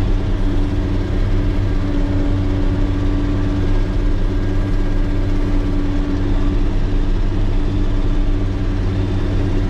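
Motor grader's diesel engine running steadily with a constant low drone and a steady held tone, without revving.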